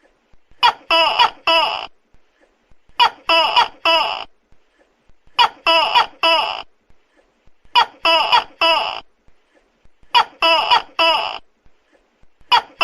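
Tokay gecko calling loudly, its 'to-kek' call given in bouts of three short syllables that repeat about every two and a half seconds, five bouts in all with a sixth starting at the end.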